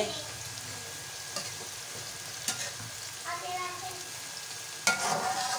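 Sliced bitter gourd sizzling steadily as it fries in mustard oil in a metal wok. A slotted metal spatula stirs it, clicking against the pan a couple of times, then scraping loudest near the end.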